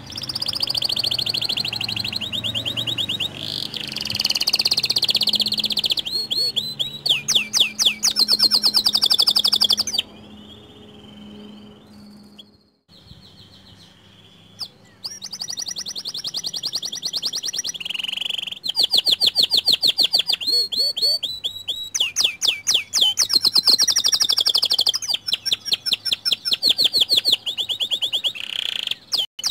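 Canary (a white canary) singing a long, loud song of rapid trills and rolling runs of repeated notes, about ten notes a second, with sweeping whistled phrases between. The song drops to a fainter spell about ten seconds in, then carries on.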